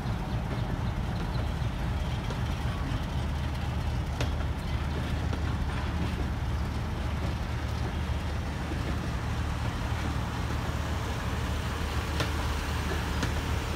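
Passenger train pulling away behind a diesel locomotive: a steady low engine drone with the rolling noise of the coaches on the rails. A few sharp clicks come through, about four seconds in and twice near the end.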